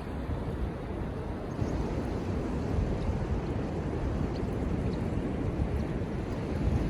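Wind buffeting the microphone in gusts, over the steady wash of surf on the beach.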